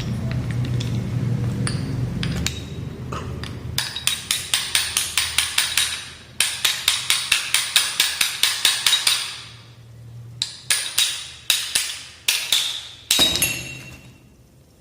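Rapid light hammer taps on the metal body of a seized car AC compressor, about five a second, each ringing briefly. They come in four runs with short pauses between, as the housing is knocked loose.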